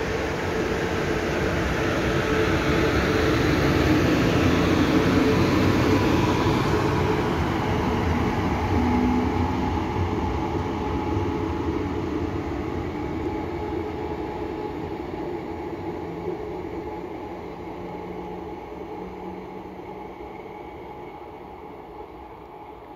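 A locomotive-hauled double-deck regional train drawing away along the track. Its running noise and hum grow for the first few seconds, then fade steadily as it moves off into the distance.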